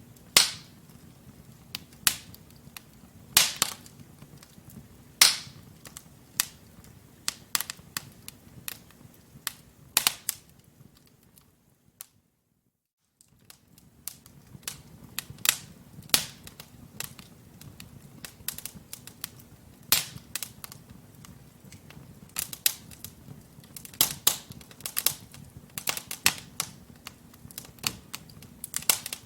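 Wood logs burning in a fireplace: irregular sharp pops and snaps over the low steady hiss of the flames. The sound drops out to silence for about a second and a half near the middle.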